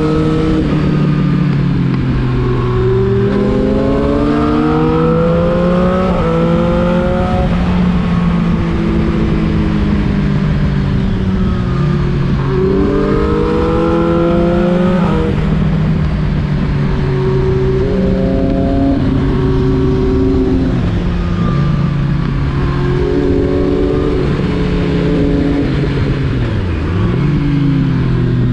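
Triumph Street Triple 675 RX inline-three motorcycle engine under way. The revs climb in quick steps through several gear changes twice, and the pitch falls away in between as the throttle is shut.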